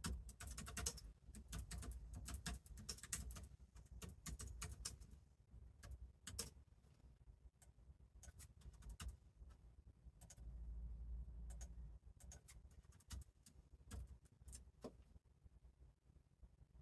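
Faint, irregular clicks and taps in quick clusters, the sounds of someone working at a desk, over a low room rumble.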